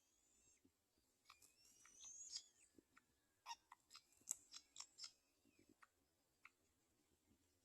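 Faint, high-pitched bird calls: a few thin rising whistles about two seconds in, then a quick run of sharp chips around the middle and one more near the end.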